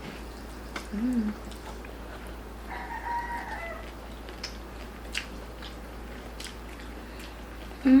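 A rooster crows once, about three seconds in: a single held call of about a second that drops at the end. A short low hum of a voice comes about a second in, and a louder one right at the end.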